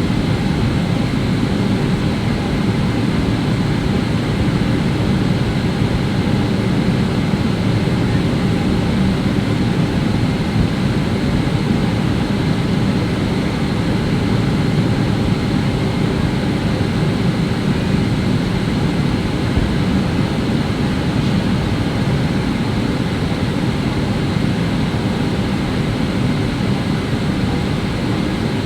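Steady low rumble of jet engine and airflow noise heard inside the cabin of a Boeing 777-300ER airliner, unchanging throughout.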